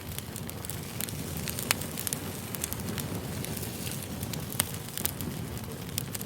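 Campfire burning: a steady low rumble of flames with sharp, irregular crackles and pops of burning wood.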